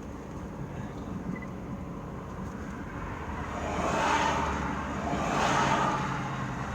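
Car engine running steadily, heard with a broad rushing noise that swells twice, about four and five and a half seconds in.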